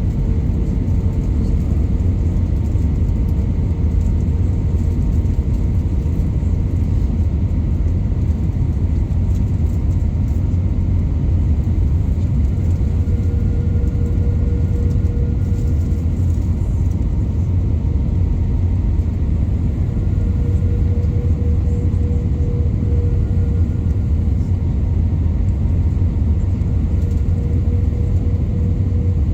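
Airliner cabin noise on the approach: a steady low rumble of engines and airflow, with a faint steady whine running through it.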